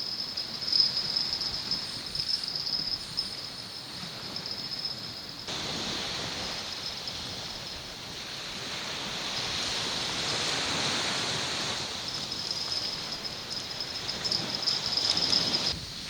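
Waves washing on the shore, swelling and easing, with a steady high-pitched insect trill over them at the start and again near the end.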